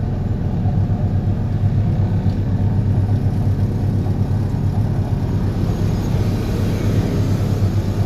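DPD350T vibro hammer driving a steel sheet pile: a loud, steady, low rumble that holds unchanged.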